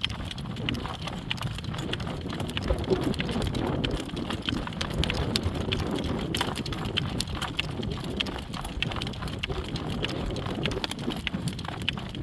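Horse's hooves clip-clopping in a steady trotting rhythm while being driven in harness, over a low rumble of wind on the microphone.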